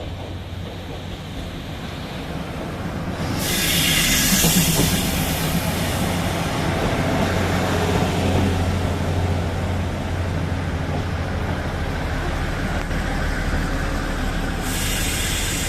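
A train rumbling on the rails, the low rumble growing louder over the first few seconds. A loud hiss starts suddenly about three and a half seconds in and lasts a couple of seconds, and another starts near the end.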